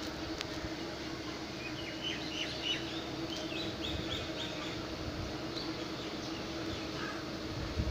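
A bird chirping a quick run of short, high notes about two seconds in, with a few fainter chirps later, over steady outdoor background noise with a low hum.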